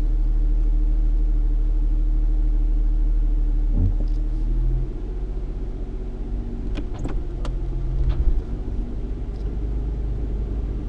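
Cabin noise inside a 3.8-litre V6 Ford Mustang with an automatic transmission: a steady low engine hum and road rumble that eases off about five seconds in. A few sharp clicks come near the middle of the stretch.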